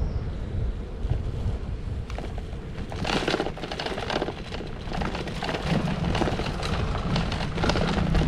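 Wind rumbling on the microphone outdoors. From about three seconds in, a run of dry crackling and crunching joins it, and a low engine hum comes up near the end.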